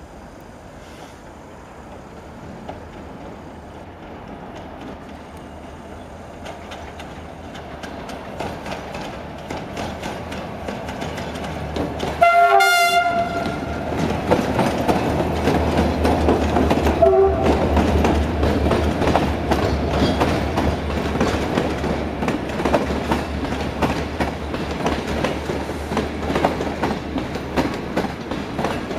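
A diesel-hauled train approaching and passing, growing steadily louder, with a short horn blast about halfway through and a fainter second blast a few seconds later. After the horn, the locomotive's low engine drone and the clickety-clack of wheels over rail joints carry on.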